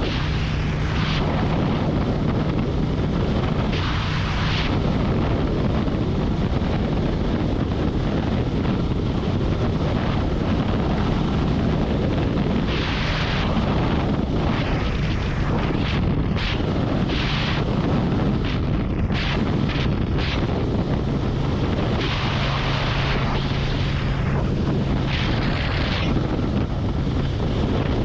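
Harley-Davidson Road Glide motorcycle cruising at steady highway speed: a constant engine drone under heavy wind rush on the microphone, with several brief louder rushes of hiss.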